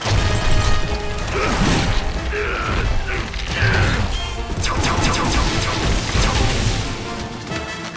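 Cartoon action sound effects, with crashing impacts and mechanical clattering, layered over a music score.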